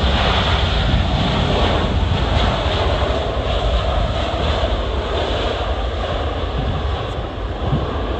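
Jet airliner's engines roaring as it passes, loudest near the start and slowly fading, with gusts of wind buffeting the microphone.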